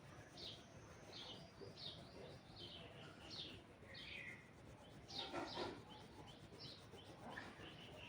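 Faint bird chirping: a series of short, high, falling chirps, about two a second, with a louder call about five seconds in.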